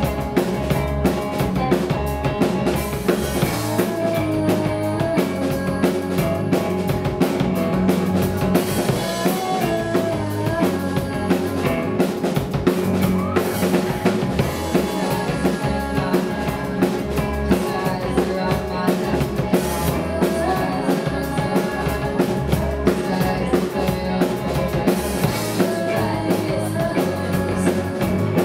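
Live rock band playing an instrumental passage: a drum kit keeps a steady, driving beat under bass and electric guitars, with no singing.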